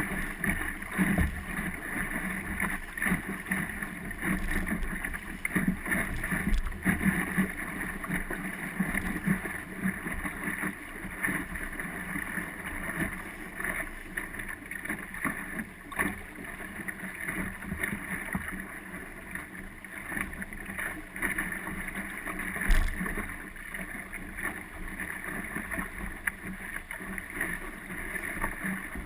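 Wind buffeting the microphone over water noise from a small sailing dinghy under way, with scattered light knocks and one sharp knock about three-quarters of the way through.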